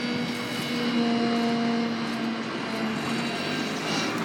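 Road vehicle engines running steadily, a constant hum with a few steady tones.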